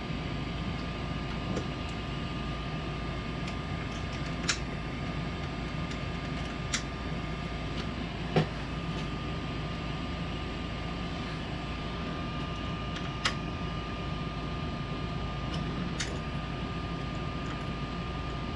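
Steady hum of the Ender 3 3D printer's cooling fans with a faint constant whine, and a few sharp clicks and taps, about five, spread through it as the Z-axis limit switch is loosened and moved down by hand.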